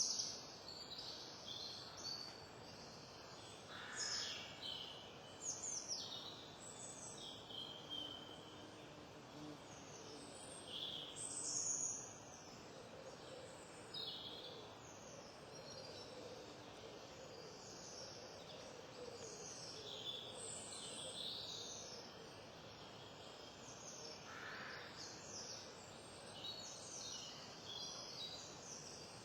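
Wild songbirds calling and singing: many short, high chirps and twittering phrases, some close, some farther off, over a steady outdoor hiss.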